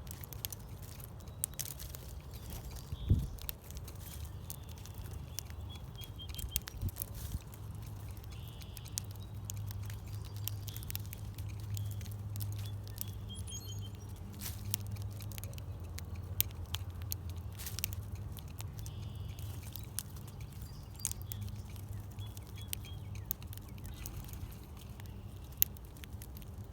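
Small birds at a feeder: scattered taps and clicks of pecking and landing, a louder thump about three seconds in, and short chirps several times, over a low steady hum.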